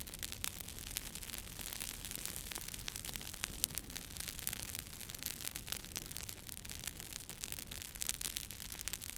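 Wood fire crackling, with many irregular sharp pops and snaps over a steady hiss and a low rumble.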